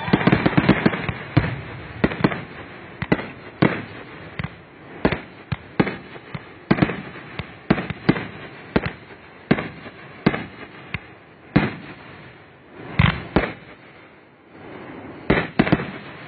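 Aerial firework shells bursting. A rapid volley of bangs comes first, then single sharp reports about once a second. A tight cluster of bangs comes about 13 seconds in, and another just before the end.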